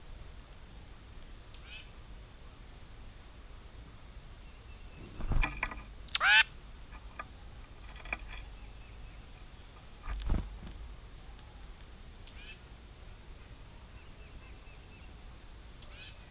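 Wild birds calling at a feeder: short, high notes that slide downward, repeated every few seconds, and one loud call falling steeply in pitch about six seconds in. Two dull knocks come at about five and ten seconds.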